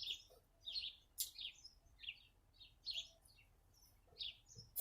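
Small birds chirping: short, high chirps repeating irregularly, about three a second.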